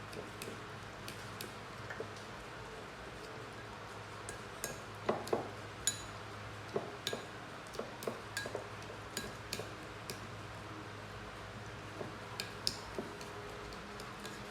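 Light clinks and knocks of hard objects being handled now and then, some with a short high ring like glass or metal, most of them bunched around five to six seconds in and again near the end, over a low steady hum.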